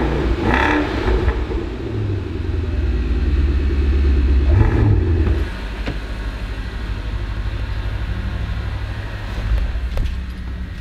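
Porsche engine running with a deep rumble that swells once about four and a half seconds in, then drops to a steadier, quieter idle about five and a half seconds in.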